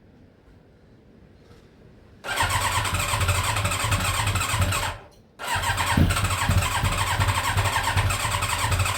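Yamaha Thunderace motorcycle engine being cranked on its electric starter in two bursts, about three and four seconds long with a short break between, each cut off abruptly. The engine is struggling to start and will not hold an idle.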